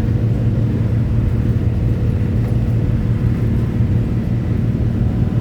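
Engine running with a steady, unchanging low drone.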